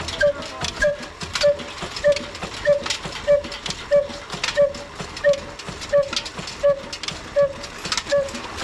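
Old 22 hp desi diesel engine running at a slow, even beat of about three firing knocks every two seconds, each with a short ringing note.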